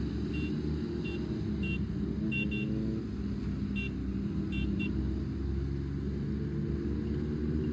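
Suzuki Hayabusa inline-four engine idling steadily through an aftermarket exhaust, a low even rumble. A few short high chirps sound over it in the first five seconds.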